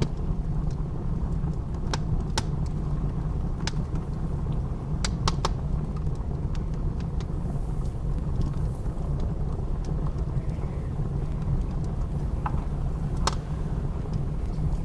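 Blizzard wind as a steady low rumble, with a wood fire's sparse crackles and pops, about eight sharp snaps scattered through.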